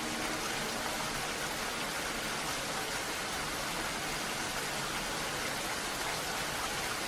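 Steady rainfall, an even hiss with no distinct drops, with the last notes of a soft melody fading out at the very start.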